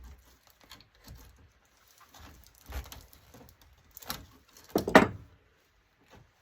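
Scattered small clicks and knocks of an LCD monitor's internal parts being handled and pulled apart, with a louder clatter about five seconds in.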